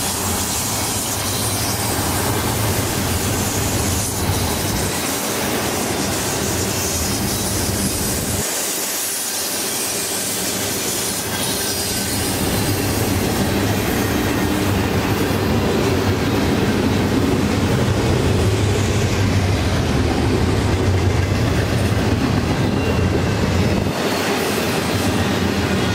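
Long double-stack intermodal freight train's container well cars rolling past, a steady noise of steel wheels on rail that grows louder about halfway through.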